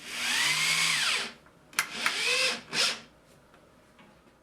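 A power drill driving screws into framing lumber. The motor runs three times, its pitch rising and falling with each run: the first run lasts over a second, a sharp click comes just before the second, and a brief third run follows.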